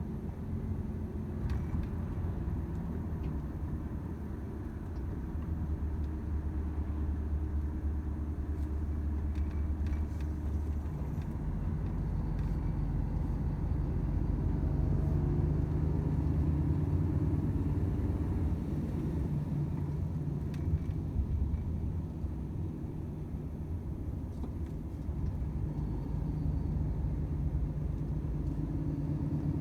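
Volvo FH 500 truck's 13-litre straight-six diesel running under way with a steady low drone and road rumble; the engine note changes about a third of the way in and again near the end.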